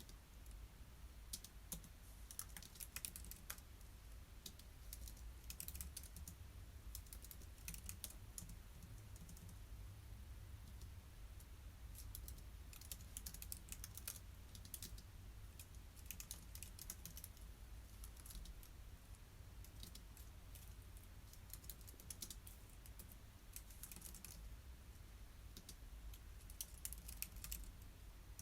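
Typing on a computer keyboard: irregular runs of light key clicks with short pauses in between, over a low steady background hum.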